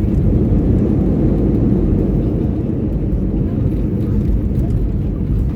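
Steady, loud low rumble of airliner cabin noise during the landing: engine and airflow or runway roll heard from inside the passenger cabin.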